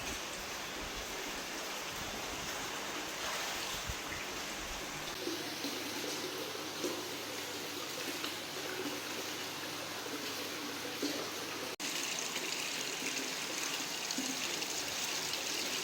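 Steady running water, an even rushing hiss. About 12 seconds in it breaks off for an instant and resumes brighter.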